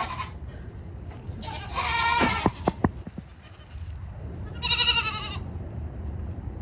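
Nigerian Dwarf goats bleating twice, two high-pitched calls a few seconds apart, with a few sharp knocks just after the first call.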